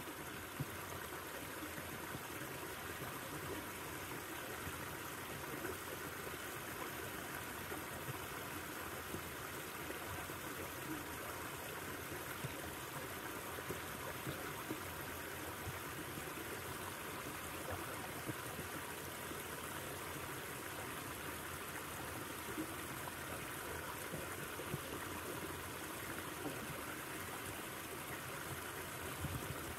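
River water flowing in a steady rush, with small splashes and trickles over stones.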